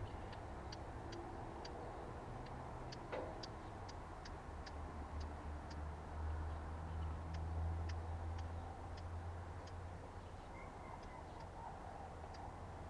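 A small songbird gives a string of sharp, high ticking calls at about two a second, irregularly spaced, that thin out near the end. A steady low rumble runs underneath.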